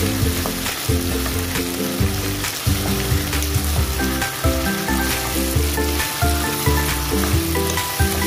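Chicken pieces in sauce sizzling in a nonstick frying pan while a wooden spatula stirs them, with short scrapes and knocks against the pan. Background music with a bass line plays throughout, and a higher melody comes in about halfway through.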